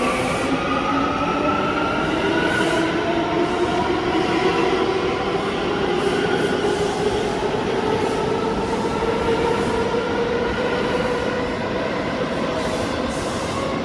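New York City subway train moving through the station, its electric traction motors whining in several tones that slowly rise in pitch over the first few seconds and then hold, over a steady rumble of wheels on rail.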